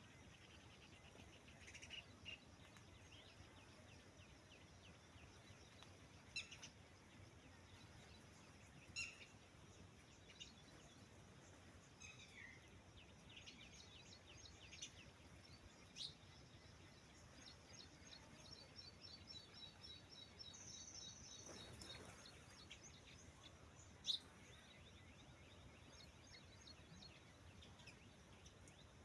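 Faint bird calls over a low background hiss: scattered short high chirps, a quick trill about two-thirds of the way through, and one sharper call shortly after it.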